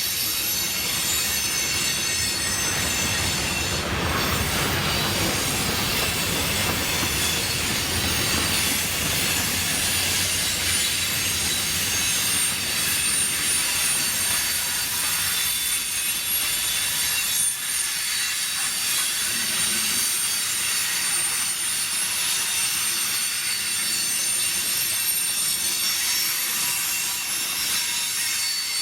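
Freight cars of a manifest train rolling past, their steel wheels squealing against the rails in several high tones over a low rumble. The rumble thins out about halfway through.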